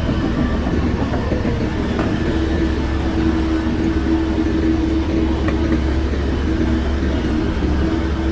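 Shantui bulldozer's diesel engine running steadily, with a constant low hum and a steady drone.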